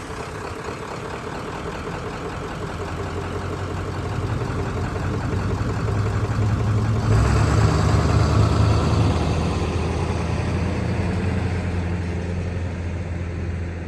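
Ford 7.3 L Powerstroke V8 turbo-diesel in a 1996 F-250, running steadily just after starting. It grows louder about seven seconds in, then slowly eases off.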